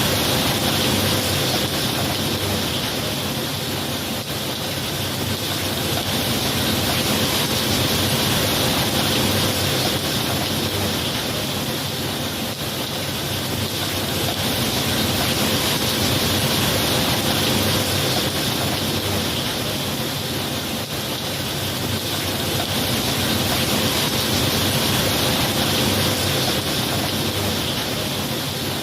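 Steady rainfall, an even hiss that slowly swells and eases every several seconds.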